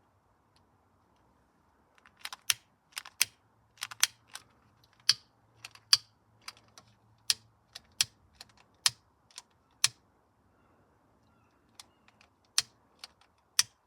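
A handheld lighter being clicked over and over in quick, uneven runs of sharp clicks, with a pause of about two seconds before the clicking starts again near the end.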